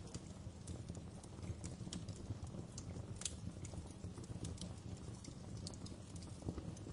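Wood fire in a fireplace crackling: irregular sharp pops over a low, steady rumble of the flames, with a louder pop about three seconds in.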